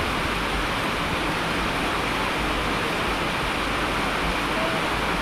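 Steady rain falling, a constant even hiss with no breaks or single drops standing out.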